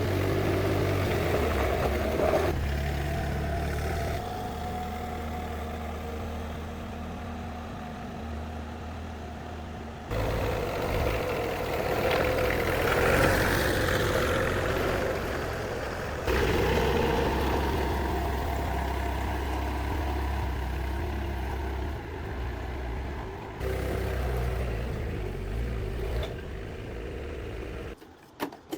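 Motor vehicle engine running steadily, in several edited segments that change abruptly every few seconds.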